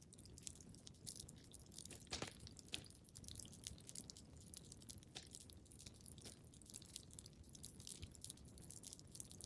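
Quiet wood fire crackling in a fireplace: irregular small snaps and pops over a low steady rush, with one louder pop about two seconds in.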